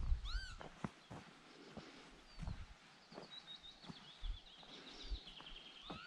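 An agitated bird calling as if to drive off an intruder: a loud call that rises and falls in pitch right at the start, then from about two seconds in a rapid run of chirps that drifts down in pitch. Soft footsteps on dirt and grass sound now and then.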